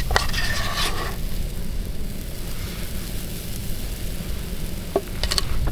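Pancake batter sizzling in a hot pan, with a few short utensil clicks near the end.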